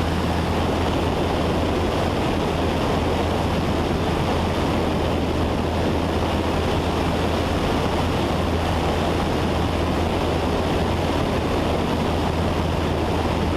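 Cessna 172's piston engine and propeller running steadily in the climb, heard from inside the cabin as a constant low drone under a wash of wind and airflow noise.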